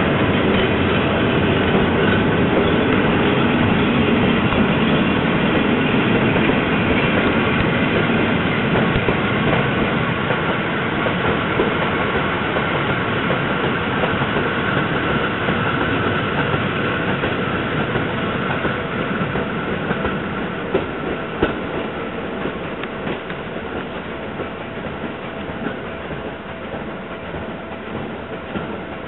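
Seibu Railway electric train running away along the track, its wheels rumbling on the rails, the sound fading steadily as it recedes.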